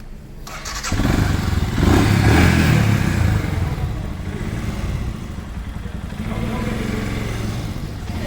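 A motorcycle engine comes in suddenly about a second in, revs up to its loudest around two to three seconds, then keeps running at lower revs while the bike is manoeuvred slowly into parking.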